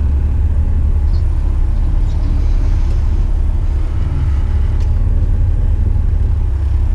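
Dump truck's diesel engine running, a steady low drone heard in the cab.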